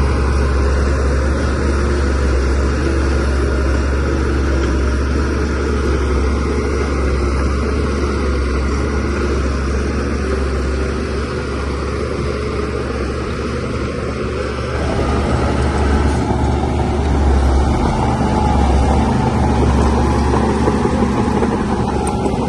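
DH17C3PRO bulldozer's diesel engine running steadily with a deep low rumble, easing off a little around the middle and picking up again a few seconds later as it works.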